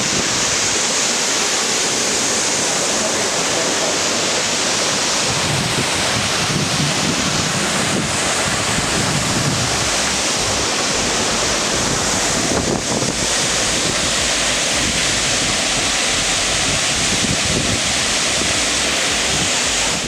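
Waterfall pouring: a loud, steady rush of water, with wind buffeting the microphone at times.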